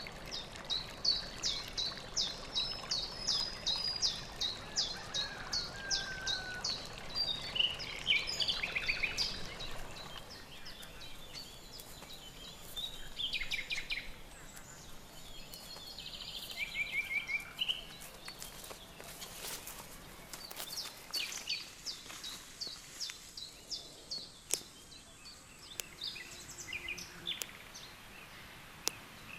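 Small birds singing and chirping, with a quick run of repeated high chirps through the first several seconds and then scattered calls and short trills, over a low steady background hiss.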